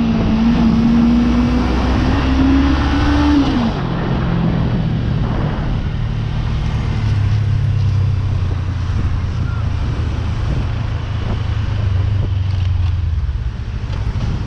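Suzuki GSX250R parallel-twin motorcycle engine running at steady revs under way. About four seconds in the throttle closes and the note drops to a lower, steady engine note, with wind and road noise underneath.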